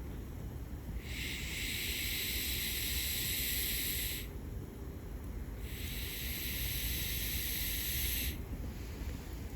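Two long hissing bursts of about three seconds each, about a second and a half apart, starting and stopping sharply, over a steady low rumble.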